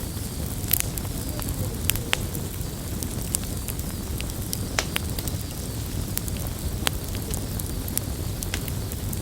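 Campfire burning: a steady low rush of flames with sharp crackles and pops at irregular intervals, several every second or two.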